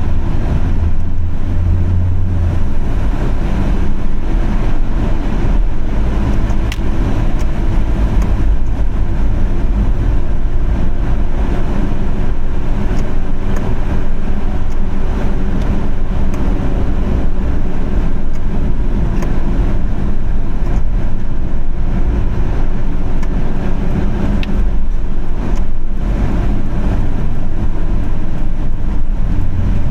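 Car driving in rain: steady low rumble of engine and tyres on the road, with a faint wavering hum and a few light ticks.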